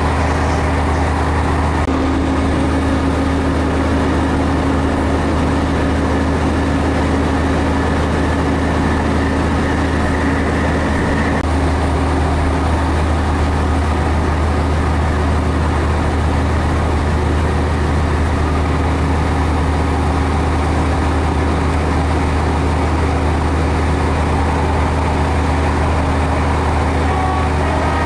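Class 150 Sprinter diesel multiple unit heard from inside the carriage: the underfloor diesel engine runs with a steady low drone. The engine note changes about two seconds in and again around twelve seconds in.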